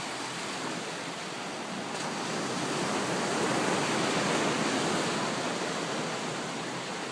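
Pacific Ocean surf: a wave breaking and washing up the beach, swelling to its loudest a few seconds in and easing off near the end.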